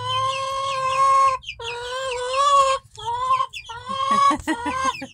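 A dog howling and whining in a run of long, drawn-out notes of about a second each, several in a row with short breaks between them.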